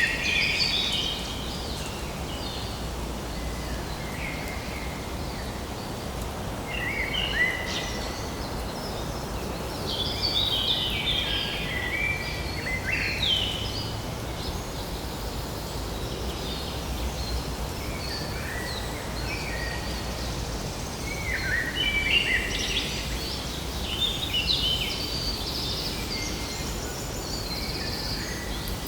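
Birds chattering in short bursts of quick, jumpy calls, with gaps between the bursts, over a steady background hiss.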